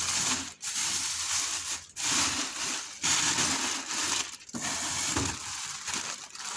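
Plastic bags and food packs rustling and crinkling as they are handled, in several bursts broken by brief pauses.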